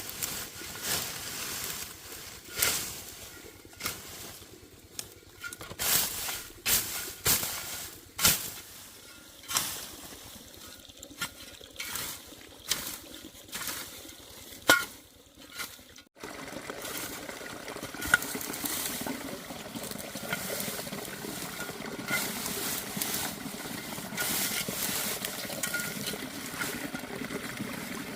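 Irregular sharp knocks and clicks of handling for about the first half. Then, after a sudden break, a steady rush of running water.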